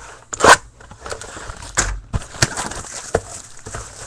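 Packaging being torn open and crinkled as a sealed box of trading cards is opened: a loud rip about half a second in, then scattered crackles and clicks.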